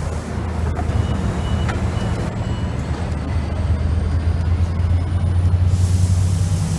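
Israel Railways double-deck train at the platform: a few short high warning beeps about a second in, then a steady low hum that grows louder, with faint rising whines as the train starts to pull away. A hiss comes in near the end.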